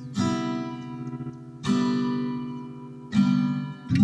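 Acoustic guitar strumming chords, each one left to ring and fade, with four strums about a second and a half apart, the last two close together near the end.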